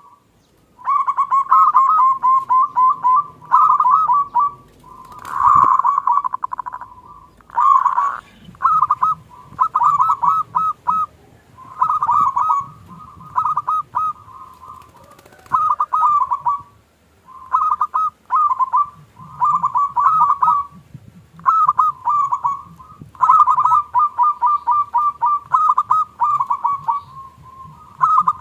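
Local zebra dove (perkutut) singing: short bubbling, trilled coo phrases repeated every second or two, with brief gaps between them. A single sharp knock sounds about five seconds in.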